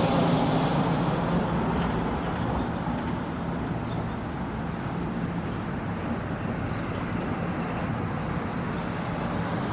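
Steady vehicle running noise with a low hum underneath, easing slightly after about two seconds.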